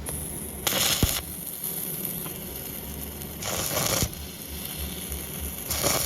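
Three short, harsh noise bursts from metalworking on scrap steel, each under a second, with a sharp click about a second in.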